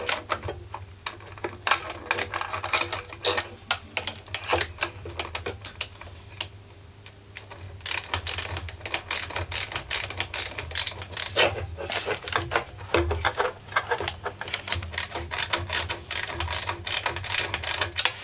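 Ratchet wrench clicking in quick runs as it turns an 8 mm screw holding the generator's exhaust muffler, with a brief lull about five seconds in.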